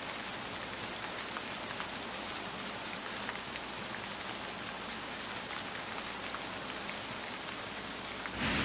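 Steady rain falling, an even hiss with scattered drop ticks. Near the end the sound suddenly jumps louder with a deep rumble coming in.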